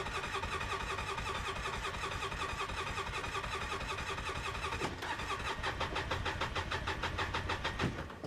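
The starter of a 2005 Polaris Ranger XP 700 cranks its EFI twin-cylinder engine on a fresh battery, turning it over at an even, steady rhythm without it ever firing: a crank-but-no-start. The cranking stops shortly before the end.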